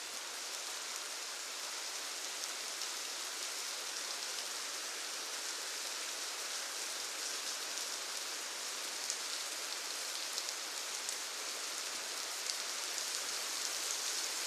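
Steady rainfall with fine individual drops pattering on a surface, an even hiss with no letup.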